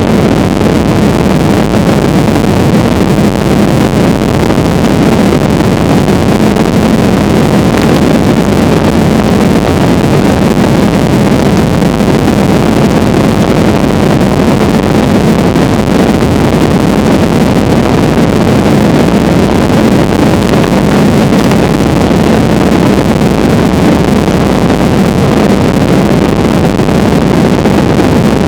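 Passenger airliner cabin noise in flight: a loud, steady drone of engines and rushing air that does not change.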